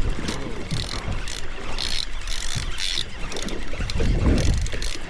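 Fishing reel being cranked in, giving a ratcheting mechanical clicking, over wind buffeting the microphone.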